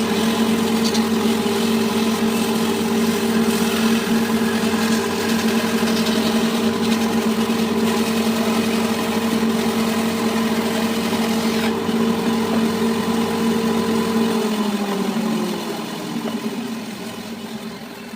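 Electric power tool motor running at a steady speed with a constant hum, then switched off about fourteen seconds in, its pitch falling as it spins down.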